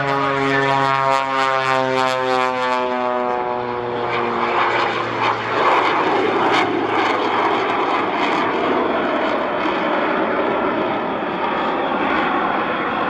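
Propeller airplane passing at an air show: its engine drone slides down in pitch over the first four or five seconds as it goes by, then gives way to a broad rushing roar.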